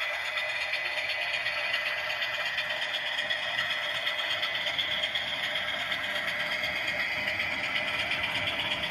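Model diesel locomotive's DCC sound decoder playing a running diesel engine through its small onboard speaker, thin and without bass, with a light clatter of wheels on the track.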